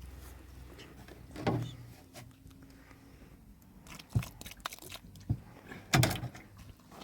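A few scattered knocks and thuds, the loudest about a second and a half, four and six seconds in.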